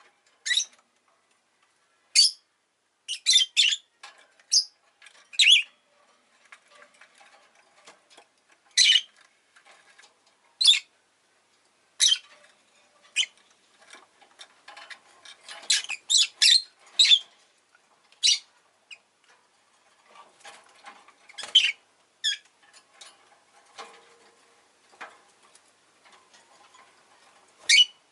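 Rosy-faced lovebirds giving short, sharp, high-pitched chirps at irregular intervals, some in quick runs of two or three, with quieter chatter and rustling between the calls.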